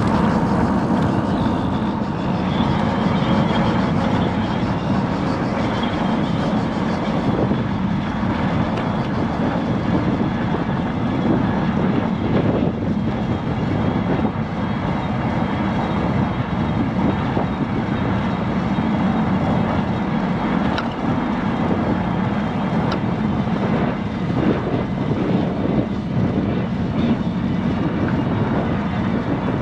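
Steady rushing noise of a bicycle ride: wind on the microphone and tyres rolling over the road, with a few faint clicks.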